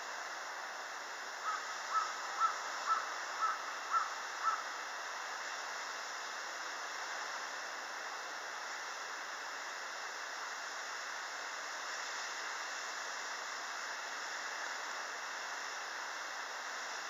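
A bird calls seven times in a quick run, about two calls a second, over a steady outdoor hiss.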